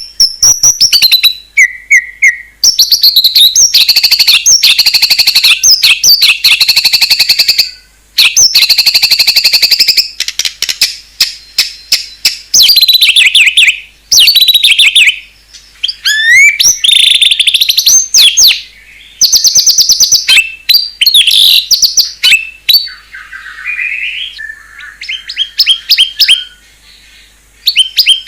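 White-rumped shama (murai batu) singing a loud, varied song of rapid trills, fast runs of repeated notes and whistled glides, broken by short pauses.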